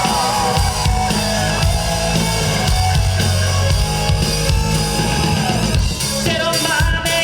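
Live rock band playing loudly, with a drum kit driving the beat.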